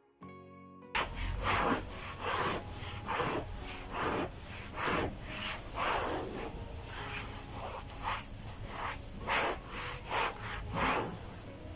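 Repeated rubbing or scraping strokes, one to two a second and uneven, starting about a second in and cutting off at the end.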